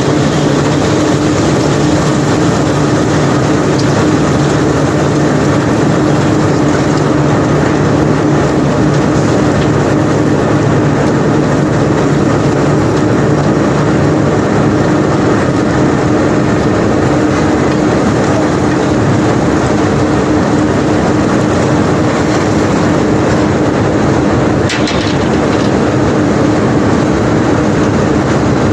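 Heavy unloading machinery discharging cobblestones from a barge: a steady engine hum under a continuous dense rattling noise.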